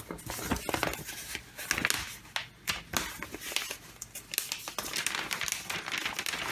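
Packaging and paper being handled, crinkling and rustling in irregular crackles and small clicks.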